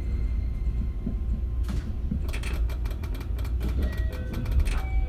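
Running sound of a JR West 271 series electric multiple unit with a Hitachi SiC inverter, heard from inside the car: a steady low rumble from the train. About two seconds in, a rapid run of clicks and clatters from the wheels on the track lasts close to three seconds.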